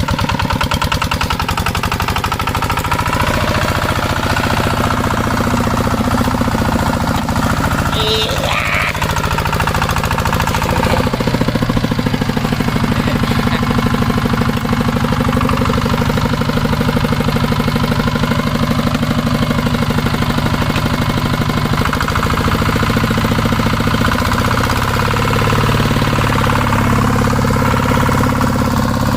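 Two-wheel walking tractor engine running steadily with a hard, fast knocking beat, its note shifting slightly about 11 and 22 seconds in.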